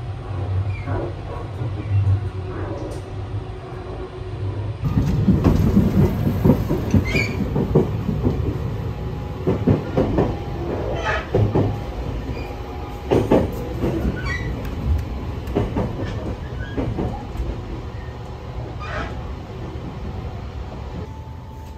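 Running noise of the Sunrise Express, a 285-series electric sleeper train, heard from inside the cars while it is under way: a steady low rumble with scattered knocks and clacks from the wheels and car body. It grows louder about five seconds in.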